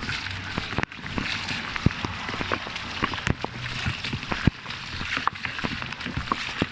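Heavy rain during a thunderstorm: a steady hiss of rainfall with many sharp, irregular ticks of drops striking close by, the phone recording inside a plastic bag.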